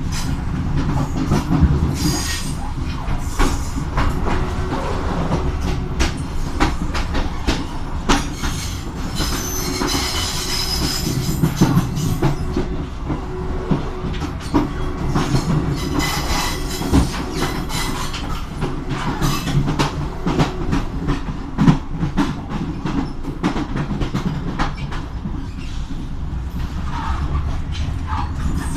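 Passenger train running on the rails: a steady low rumble with repeated clattering of wheels over rail joints, and a high wheel squeal about ten seconds in.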